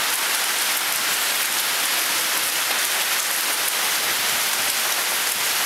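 Hailstorm: hail and heavy rain falling steadily on the surroundings, an even, unbroken hiss.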